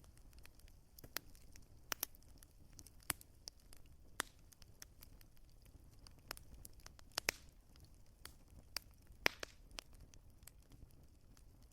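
Wood fire crackling: irregular sharp pops and snaps of burning logs over a faint low rumble, with a couple of louder pops in the second half.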